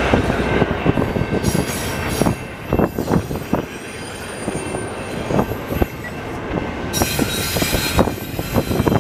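Double-stack container well cars of a Canadian Pacific freight train rolling past, with wheels knocking and clacking over the rails and spells of high wheel squeal. The sound eases off near the end as the last car goes by.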